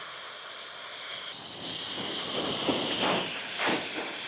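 Wind gusting, a rushing hiss that builds about a second in and surges several times, strong enough to threaten to blow a tent away.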